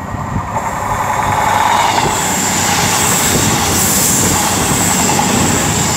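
CrossCountry Voyager diesel train passing close by at speed. Its wheel, rail and engine noise grows over the first second or two, then holds steady and loud.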